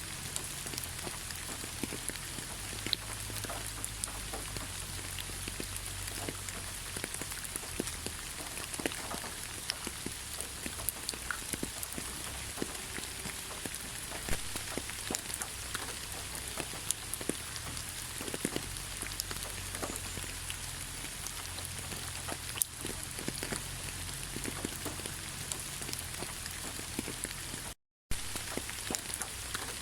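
Steady rain falling, with many single drops heard as sharp ticks over the even hiss. The sound cuts out completely for a split second near the end, then resumes.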